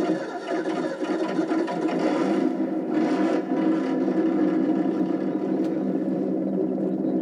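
Simulated engine sound from an ESS sound module fitted to a 1/12 Kyosho Blizzard DX model snowcat, a steady engine note played through its small speaker. A harsh rasp lies over it for the first two and a half seconds and again briefly about three seconds in.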